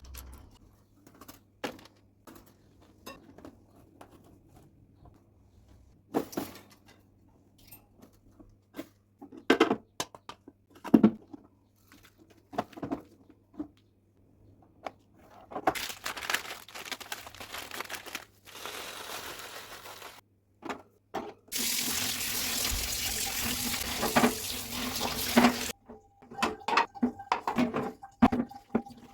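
Scattered knocks and clatter as a bird cage and its parts are handled, then water from a tap running over the cage as it is washed, loudest and steady for about four seconds past the middle of the second half, with more knocks near the end.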